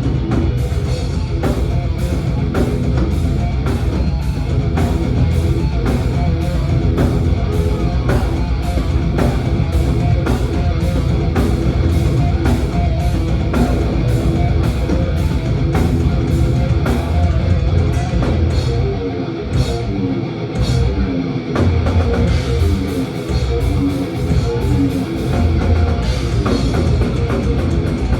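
Thrash metal band playing live with no vocals: distorted electric guitars over a drum kit keeping a fast, even beat. The low end drops out briefly in short stops about two-thirds of the way through.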